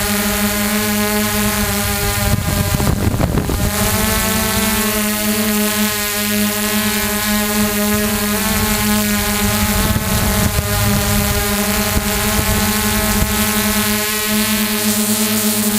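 Drone's propellers and motors running with a steady whine at an even pitch, with wind rumbling on the microphone and a louder gust about three seconds in.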